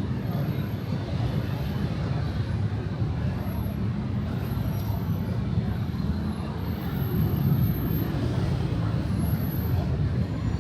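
Street ambience: a steady rumble of road traffic with no distinct events standing out.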